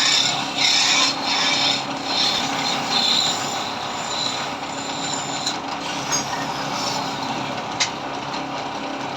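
Wood lathe running with a hand-held turning tool scraping against the spinning wood in several strokes over the first few seconds, then a steadier run with the motor's hum and lighter rubbing. One sharp click near the end.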